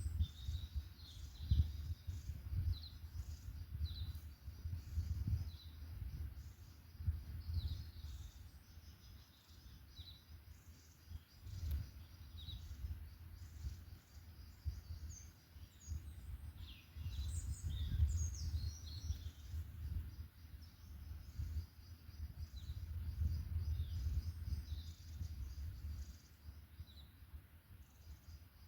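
Wild songbirds chirping and singing in a forest, with many short calls and trills scattered throughout and busiest around the middle, over a low rumble that swells and fades.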